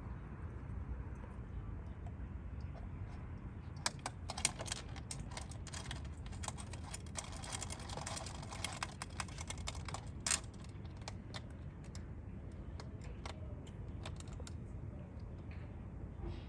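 A quick run of light, sharp clicks and taps, as of small hard parts being handled, lasting about six seconds over a steady low hum.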